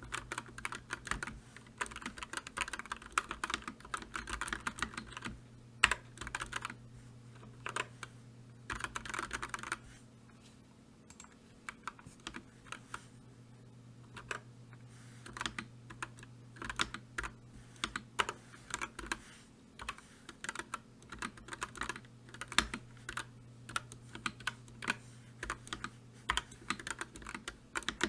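Typing on a computer keyboard: quick runs of clicking keystrokes for the first ten seconds or so, then slower, sparser keystrokes with short pauses. A faint steady low hum runs underneath.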